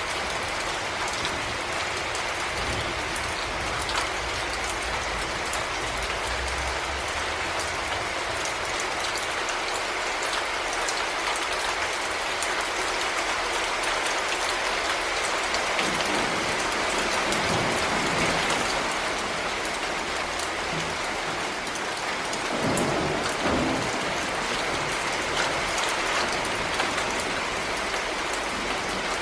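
Heavy rain falling steadily on hard surfaces, a dense even patter. A few low rumbles of distant thunder roll under it, the clearest a little over two-thirds of the way through.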